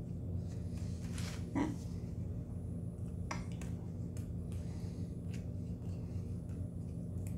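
A person chewing a mouthful of burger with mouth closed: soft, scattered mouth clicks, with a slightly louder mouth sound about a second and a half in. Under it is a steady low hum.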